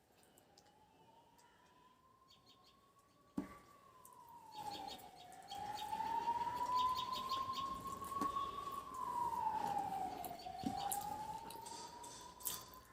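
Emergency vehicle siren wailing, its pitch sliding slowly up and down about once every five seconds and growing louder from about five seconds in. A sharp click comes a little over three seconds in.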